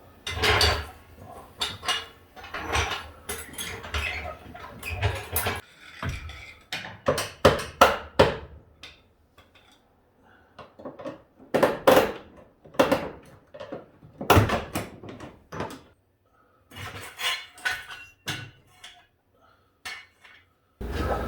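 Irregular metal clanks and knocks of a pry bar and tools working steel as a stuck transmission is levered into line with the engine. It will not go into place.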